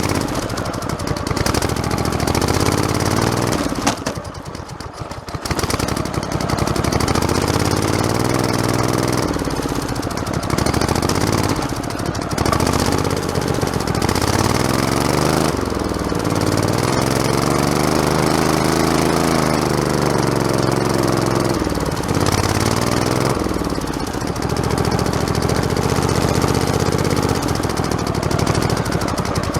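Modified lawn tractor's small single- or twin-cylinder engine running as it drives along a forest trail, its speed rising and falling several times, with a brief drop in power about four seconds in.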